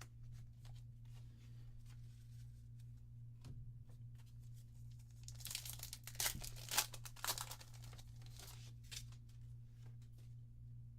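A Force of Will foil booster pack wrapper being torn open and crinkled, loudest in a burst of tearing and crackling about halfway through, with light clicks of handling before and after. A steady low hum runs underneath.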